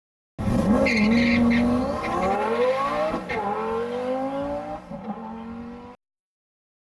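Car engine accelerating hard, its pitch climbing steadily with one upshift about three seconds in, then climbing again. It starts about half a second in and cuts off suddenly about a second before the end.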